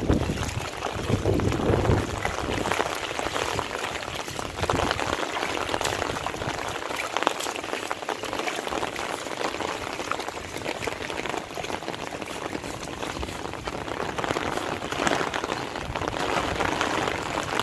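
Steady rain falling, a dense hiss with fine patter of drops. Wind buffets the microphone with a low rumble for the first couple of seconds.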